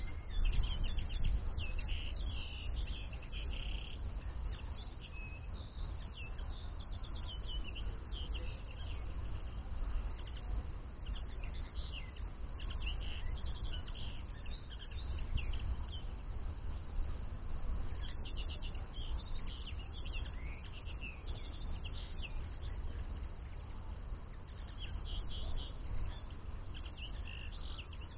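Common linnets twittering in quick runs of short chirps and trills that come in clusters, over a steady low rumble.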